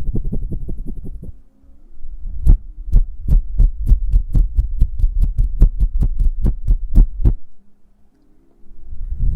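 ASMR hand sounds close to the microphone: quick soft pulses at first, then after a brief pause a steady run of deep thumps with a sharp click on each, about three a second for some five seconds, stopping shortly before the end.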